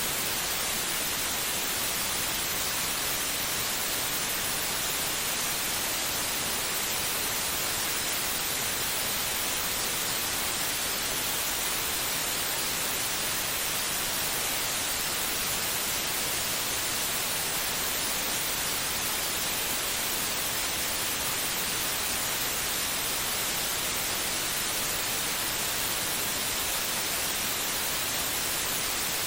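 Steady, unchanging white noise: an even, bright hiss with no beat or pauses, the kind played to lull a baby to sleep.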